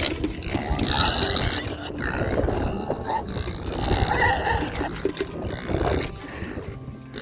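Hungry pigs grunting and squealing, in irregular loud bursts.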